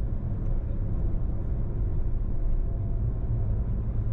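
A car being driven, with the steady low rumble of engine and road noise.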